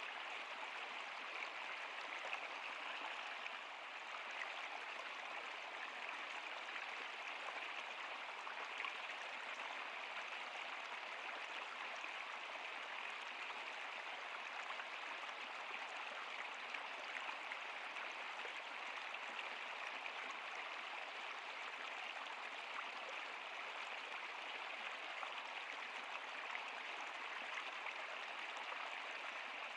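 Flowing water of a stream or river, an even, steady rush without breaks.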